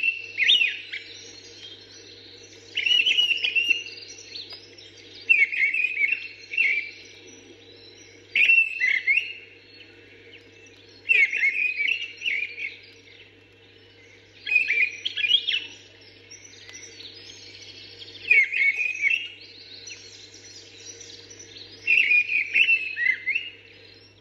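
Mistle thrush singing: short loud phrases of about a second each, repeated roughly every two and a half to three seconds, with fainter calls of other birds between them. A steady low hum runs under the song.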